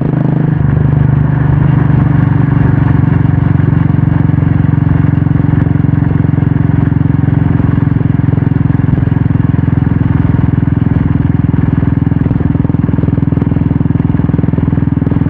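Royal Enfield Classic 350's single-cylinder engine running steadily through an aftermarket Red Rooster stainless-steel exhaust, a loud, even thumping note. The engine note shifts about half a second in, then holds steady.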